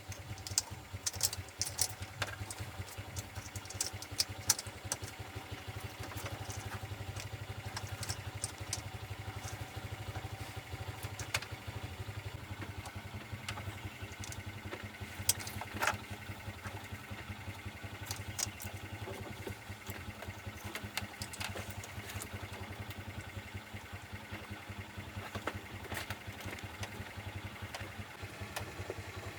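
An engine idling steadily, with scattered sharp metallic clicks and knocks over it.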